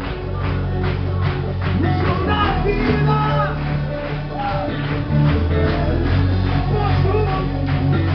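Live rock-style worship music, with a band's drums, bass and guitars and voices singing.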